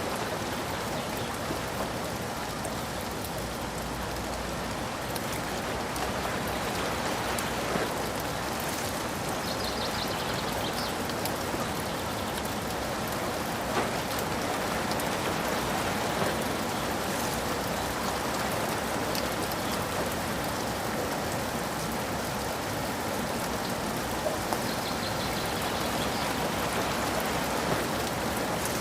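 Steady rain falling, with scattered drops ticking on surfaces and a few slightly louder drips.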